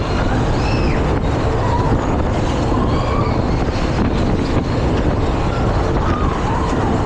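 Loud, steady rush of wind and machinery from a fairground thrill ride in motion, with a few faint short cries from riders.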